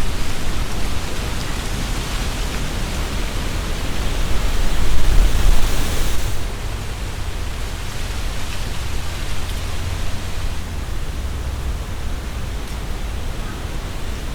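Strong wind gusting through tree leaves: a dense rustle of leaves over a low rumble of wind. A gust swells about four seconds in, then eases off fairly suddenly a couple of seconds later.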